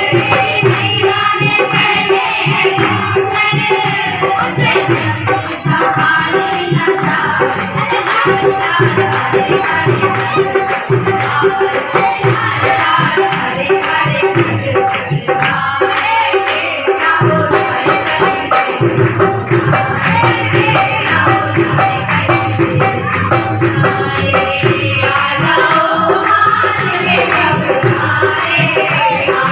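Hindu devotional song in praise of the Mother Goddess: singing over steady jingling hand percussion.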